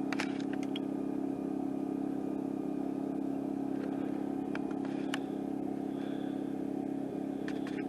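An engine running at a steady, unchanging speed, a constant hum, with a few faint clicks over it.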